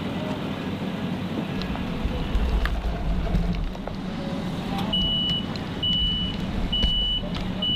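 Plow truck's engine running under load, joined about five seconds in by a backup alarm beeping steadily, about one beep a second, as the truck reverses.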